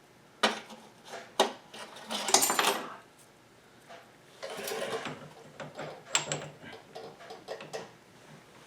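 Small steel parts and tools clinking and clattering as they are handled: a few sharp clinks, a run of clatter, then a short scraping shuffle and lighter taps. These are the shims and hardware being fitted to the VW beam's link pin.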